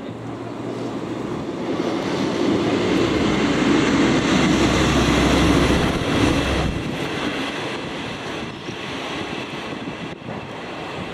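A ČD class 814 RegioNova diesel railcar passing: engine and wheel noise builds to its loudest about four to six seconds in, then drops off as the train moves away. The crossing's electronic warning bell rings along with it.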